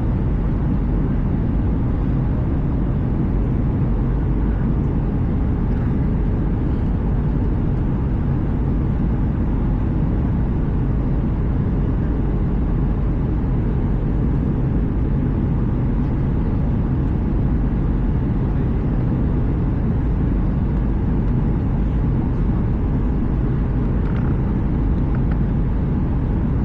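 Steady cabin noise inside an Airbus A320: a constant low rumble of engines and airflow, with no changes in level.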